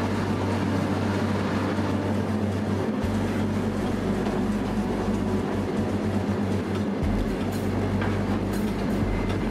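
Steady low rumble of a moving train, heard from inside an open armored railway wagon.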